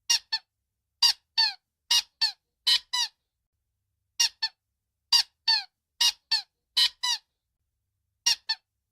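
A giraffe's call: a series of short, high-pitched squeaks, each dropping a little in pitch, mostly in pairs of quick notes, with two brief pauses between runs.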